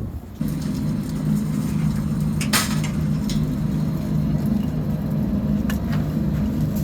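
A steady low motor hum with a few sharp clicks or knocks, one loud knock about two and a half seconds in.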